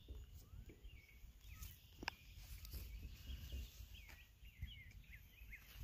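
Faint, quick chirps of small birds, repeated throughout, over a low rumble of wind, with a single sharp click about two seconds in.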